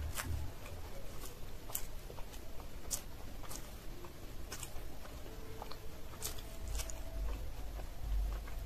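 Close-miked chewing with the mouth closed: scattered wet mouth clicks and smacks, about one a second, with a low thud at the start and a low rumble near the end.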